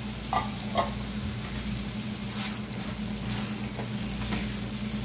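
Thickened green prawn curry sizzling and bubbling in a non-stick kadai as a silicone spatula stirs through it, with two light knocks within the first second. A steady low hum runs underneath.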